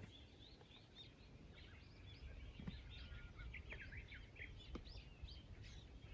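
Faint birdsong: many short, overlapping chirps and whistled notes from several small birds, over a low background rumble.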